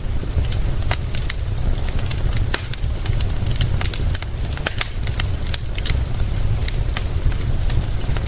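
Wood fire crackling with frequent, irregular sharp pops over a steady low rumble.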